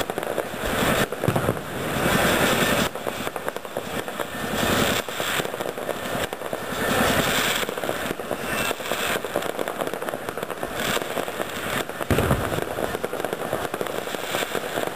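Fireworks going off in a continuous rapid crackle of many small explosions, with a few louder bangs standing out, one about a second in and another near the end.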